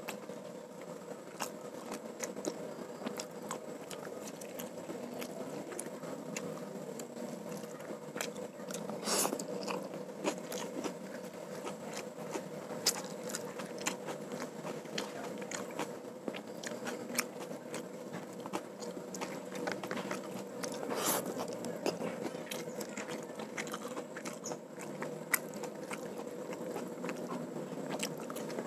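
Close-miked chewing of rice and fried food eaten by hand, with crunching and many small sharp mouth clicks, a few of them louder. A faint steady hum runs underneath.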